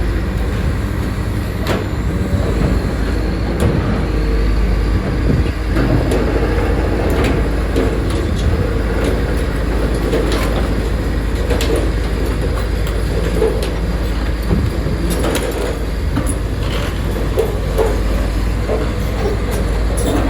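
Heavy diesel construction machinery running steadily with a deep rumble, with scattered metallic clanks and knocks throughout.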